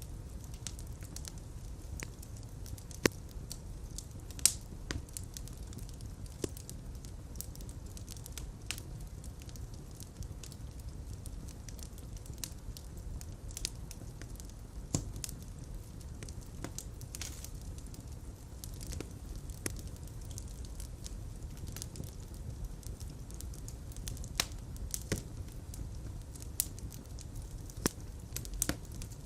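Fire burning in a fireplace: a steady low rumble of flames with scattered sharp crackles and pops, two of them louder about three and four and a half seconds in.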